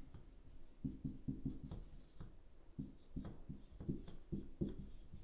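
Faint, irregular soft taps and scratchy rustles in a quiet small room.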